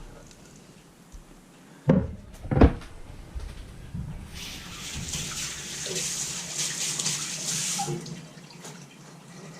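Two dull thuds, then a kitchen tap running for about four seconds before it is shut off.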